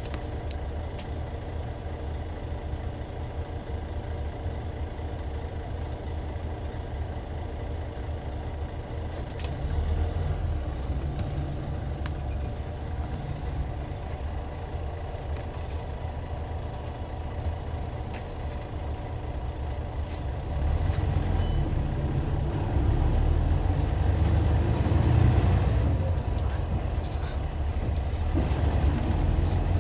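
Hyundai D6CC straight-six diesel engine of a Hyundai Universe coach running low and steady at first, then pulling harder about a third of the way in and again in the second half, with a brief drop in engine note near the end, as between gears.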